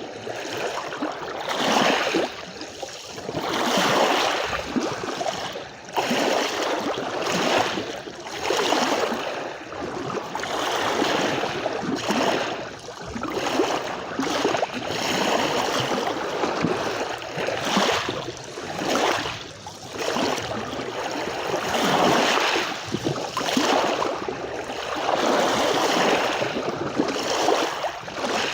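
Sea waves breaking and washing on a beach, the surf swelling and ebbing every few seconds.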